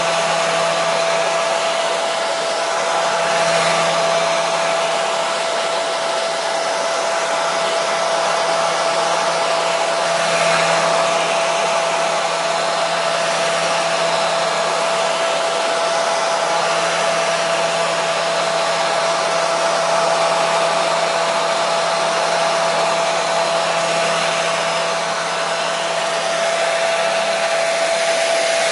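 Hair dryer running steadily on one setting: a constant airy rush with a steady whine from its motor and fan.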